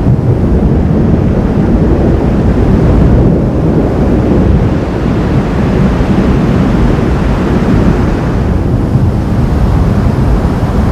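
Storm wind buffeting the microphone, a loud, steady low noise with no distinct claps.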